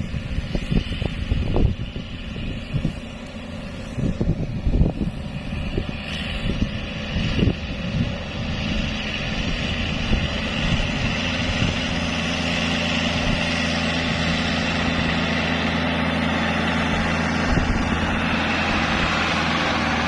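Tractor engine running under load while it works the field. For the first several seconds irregular low buffeting and knocks come through; from about eight seconds in the engine runs steady and even.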